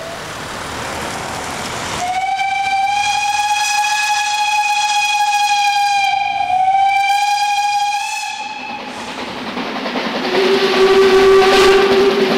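Train's Makrofon air horn sounding one long blast of about six seconds at a single high pitch, dipping briefly near its end, over the rushing noise of the train. A second, lower horn note starts near the end.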